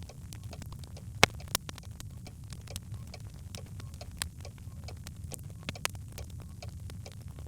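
Birch logs burning in a fireplace, crackling with frequent small clicks over a steady low rumble of the flames. Two sharp pops stand out a little over a second in.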